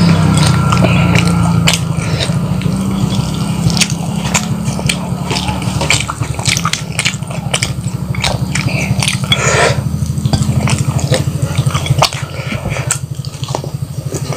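Close-up chewing and biting of crispy flour-battered fried chicken with sambal, eaten by hand, with irregular wet mouth clicks and smacks. A steady low hum runs beneath.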